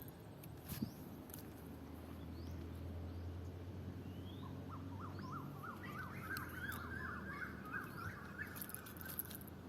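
Birds calling: short rising chirps repeated throughout, and a fast run of chirping notes from about five seconds in that stops near the end, over a low steady hum.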